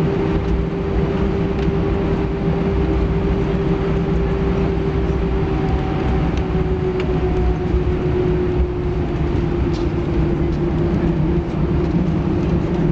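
Cabin noise inside an Airbus A320-214 with its CFM56 engines at idle while taxiing after landing. It is a steady rumble with a constant whine that sags slightly in pitch in the second half.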